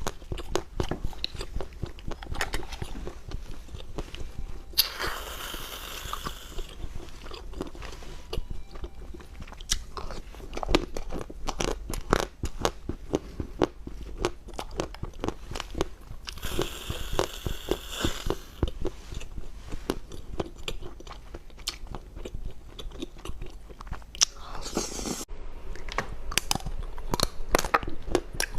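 Close-miked eating: crunchy food being bitten and chewed, a dense run of small sharp crunches. Twice there is a longer stretch of rustling hiss lasting a second or two.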